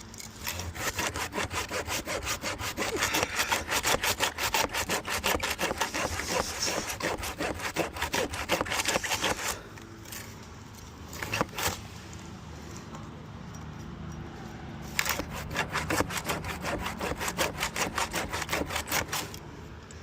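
Hand saw cutting through a tree branch with quick, rhythmic back-and-forth strokes, in two bouts separated by a pause of a few seconds.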